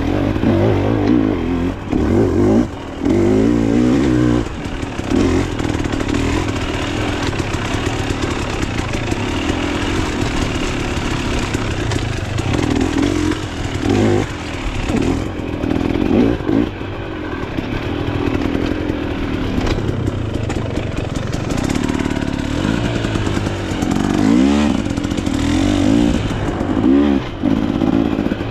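Enduro dirt bike engine being ridden hard, revs rising and falling with the throttle, with brief drops as the throttle is shut and quick rev sweeps up and down near the end.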